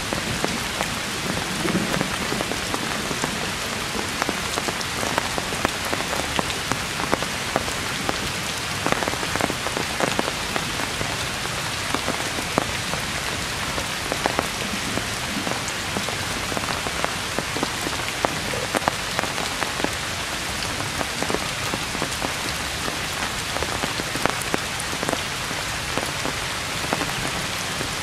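Heavy rain falling steadily on tree foliage: a dense, even hiss with many sharp individual drop impacts scattered through it.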